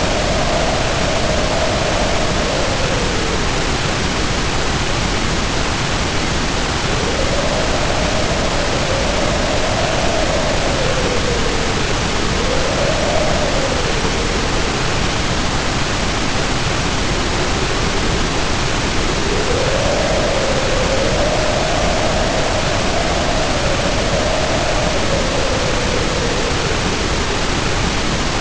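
Heavy rain pouring as a steady, dense hiss, with wind howling over it in long gusts that rise and fall in pitch: one at the start, two in the middle, and a longer one in the last third.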